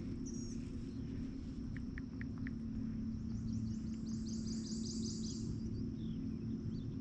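Birds calling: a short high call near the start, then a rapid run of about a dozen quick repeated high notes in the middle. A steady low hum runs underneath.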